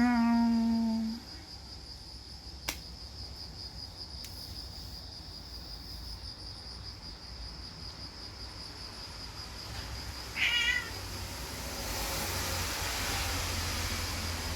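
Stray cat meowing: one long meow about a second long, and a short, higher meow about ten seconds in. Crickets chirp steadily under it.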